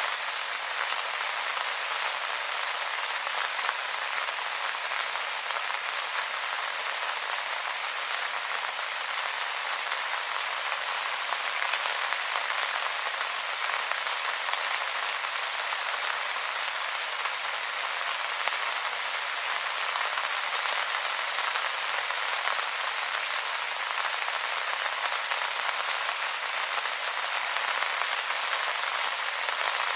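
Steady rain pattering on wet leaves: a dense, even hiss of many small drops, with little below the midrange.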